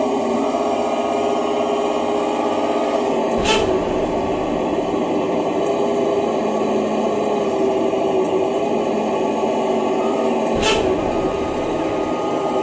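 A small motor running steadily with a low hum. It is broken by two sharp clicks about seven seconds apart, and the low part of the hum shifts between them.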